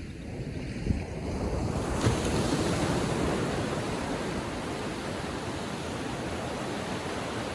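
Small ocean waves breaking and washing up a sandy beach, the surf swelling louder about two seconds in, with wind rumbling on the microphone.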